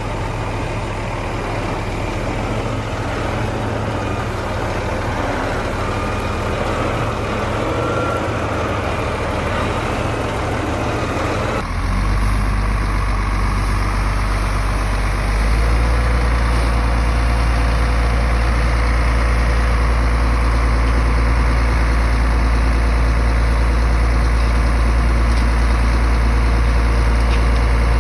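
Heavy earthmoving machine's diesel engine running steadily with a deep low drone; about 12 s in the sound changes abruptly, and from about 15 s in the low rumble is louder.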